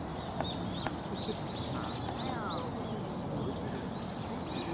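Small birds chirping, many short high calls repeating one after another, over a steady low background noise. A couple of brief clicks come within the first second.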